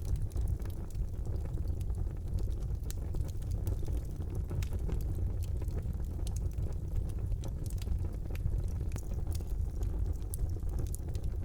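Fire burning in a brick fireplace: a steady low rumble of the flames with frequent small, irregular crackles and pops.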